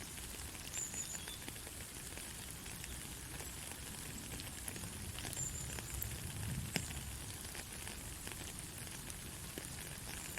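Steady rain falling on forest foliage, with a soft hiss and scattered drips and taps. A few brief high chirps come through, and a sharper drip sounds about two-thirds of the way in.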